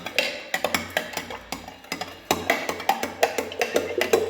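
A spoon stirring sugar into a jug of lemonade, clinking and knocking against the jug's sides several times a second in an uneven rhythm.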